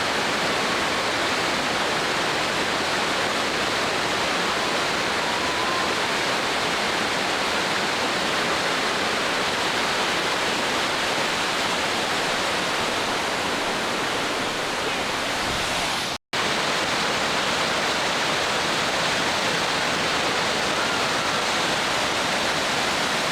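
Whitewater river rapids rushing steadily. The sound cuts out for an instant about sixteen seconds in.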